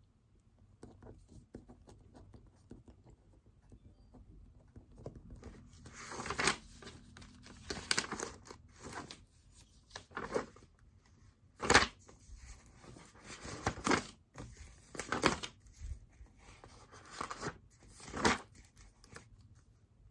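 Paper being handled: faint scattered rustles, then a series of about ten short rustling, tearing noises, the loudest about halfway through.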